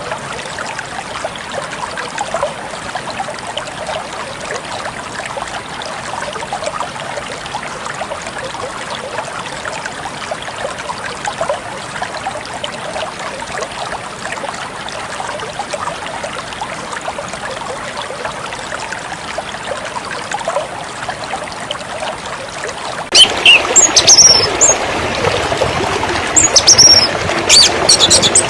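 A small stream trickling steadily. About 23 seconds in, the sound cuts abruptly to a louder rush of water, with birds chirping sharply over it.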